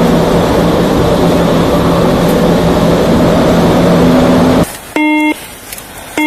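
Loud road and wind noise of a vehicle driving fast, with a steady engine hum, which cuts off suddenly near the end. Two short electronic beeps follow, about a second apart.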